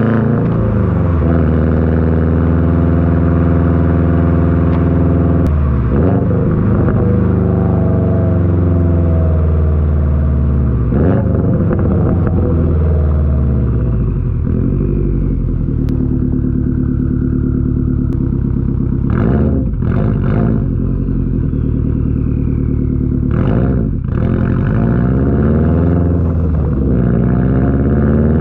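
2021 Subaru WRX STI's turbocharged flat-four running through an RK Titanium titanium catback track exhaust on the stock downpipe, driven casually. The exhaust note rises and falls with the revs, with brief breaks in the sound several times, most clearly about twenty and twenty-four seconds in.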